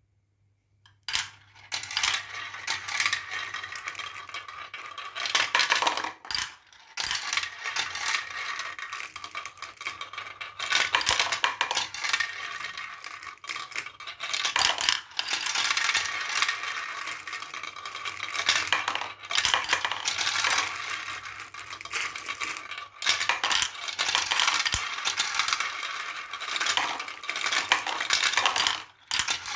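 Many marbles rolling and clattering down a marble run: a dense, continuous rattle of small clicks and knocks. It starts about a second in, with short lulls around six seconds and near the end.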